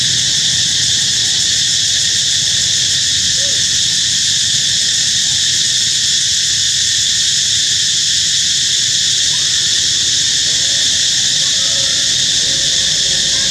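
Steady, high-pitched chorus of droning insects, unbroken throughout, with a few faint short squeaks now and then.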